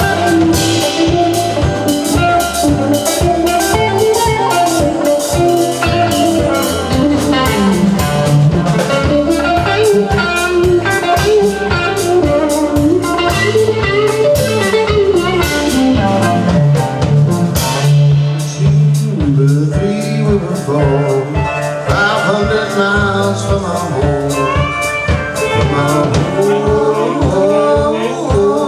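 Live country-blues band playing an instrumental break, with a lead melody line over guitar and a steady drum-kit beat.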